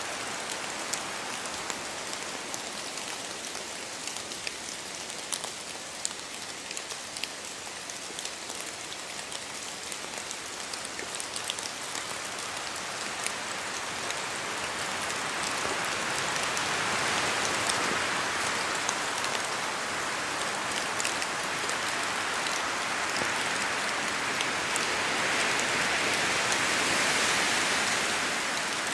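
Steady rain falling on forest trees and foliage, with many sharp ticks of single drops. The rush swells louder twice in the second half.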